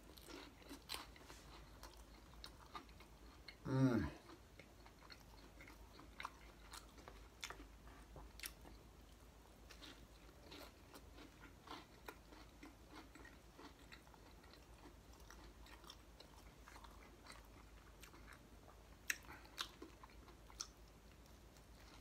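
Close-miked chewing of a crunchy-crusted French bread pizza, with soft wet mouth clicks and crunches. There is a brief hum falling in pitch about four seconds in, and a cluster of louder crunches near the end as another bite is taken.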